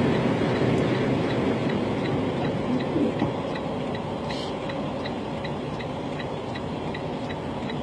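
Inside a semi truck's cab moving at a crawl: a steady low engine and road rumble, easing slightly, with a faint regular ticking about two to three times a second.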